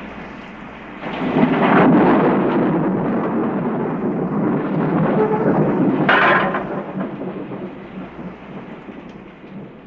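Thunder rumbling: a rumble that swells about a second in, a sharper burst about six seconds in, then a long fade.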